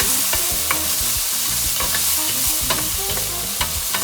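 Scallops and sauce sizzling in hot oil in a wok while being stirred, with a steady hiss and scattered clicks of the utensil against the pan.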